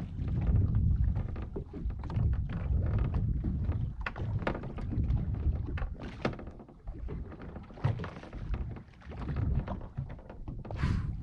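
Water slapping and knocking against a small boat's hull, with wind rumbling on the microphone and a few sharp knocks. Near the end there is a short hissing puff.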